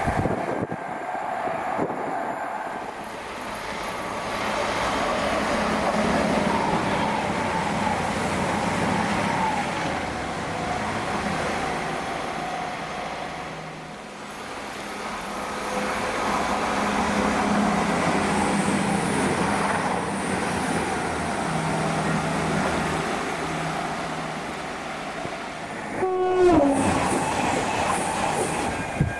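Class 222 Meridian diesel multiple units passing at speed, a steady rush of wheels and engines that swells and fades with each pass. Near the end a horn blast drops sharply in pitch as the train goes by.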